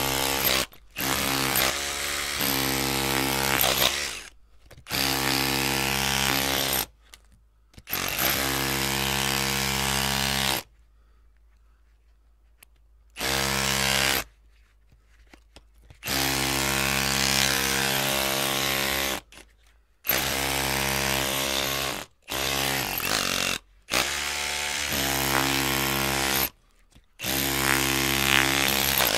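Electric drill running in bursts of one to three seconds, its motor whine starting and stopping about ten times with near-silent pauses between.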